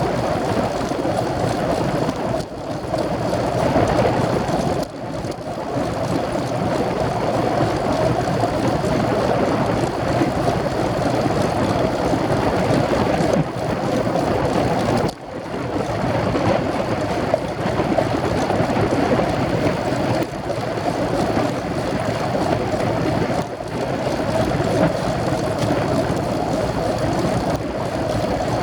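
Steady rush of wind on the microphone of a camera riding along on a moving road bike, dipping briefly a few times.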